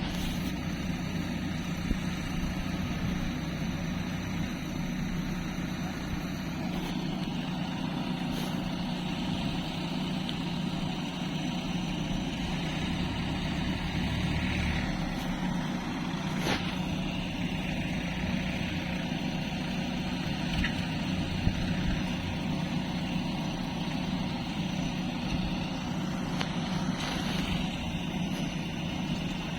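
Heavy diesel engine running steadily, with a few sharp knocks or clanks now and then.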